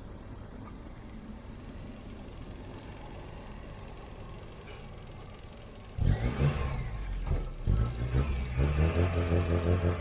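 Car engine running with a steady low hum, then suddenly much louder about six seconds in.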